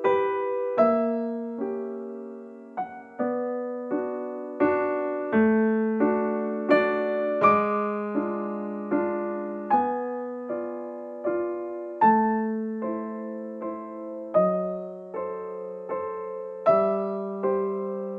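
Background piano music: a slow, gentle melody of single struck notes, each fading away, over held low notes.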